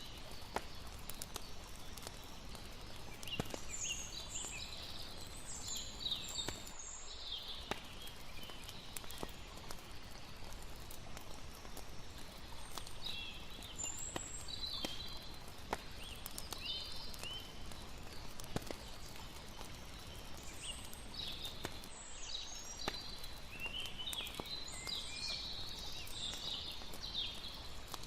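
Campfire crackling with scattered sharp pops over a steady low hiss of water, with bursts of high chirping calls coming and going every few seconds.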